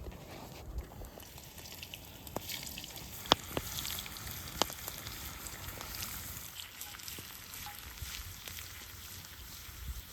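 Food sizzling in a cast-iron pan over a campfire: a steady hiss with scattered sharp crackling pops, the loudest about a third of the way in.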